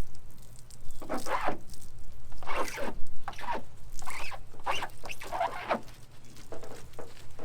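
Hand-washing strokes on the truck's body: about six short, squeaky rubbing strokes in a row, each sliding down in pitch, over a steady low hum.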